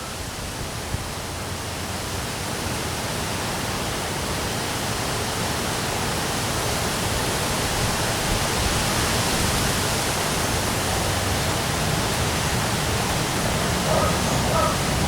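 Heavy rain and wind during a storm, an even, steady hiss that builds slightly.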